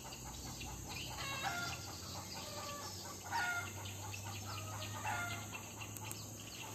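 Birds calling: short calls repeating every second or so, over a low steady hum that starts about halfway through.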